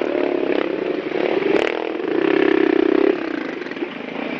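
Motorcycle engine running close by, swelling again about two seconds in and easing off after about three seconds, with one sharp click about a second and a half in.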